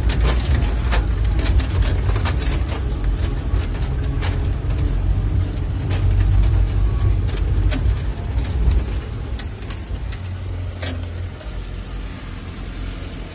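A motor vehicle running: a heavy low rumble with many sharp knocks and rattles, easing off somewhat after about nine seconds.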